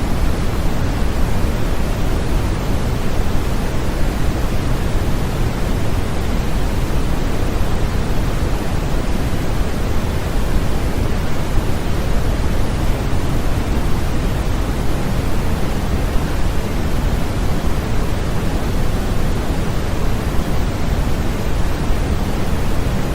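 Continuous sleep-aid white noise, a steady unbroken hiss that is heavier in the low end and thins out toward the top, with no change in level.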